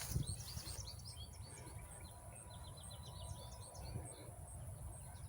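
Small songbirds chirping, a scatter of short high calls with a quick trill of about ten notes around three seconds in.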